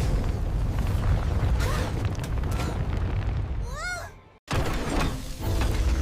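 Cartoon soundtrack of heavy low rumbling with crashes and booms. A short high cry rises and falls about four seconds in. The sound cuts out suddenly for a moment and then the rumble resumes.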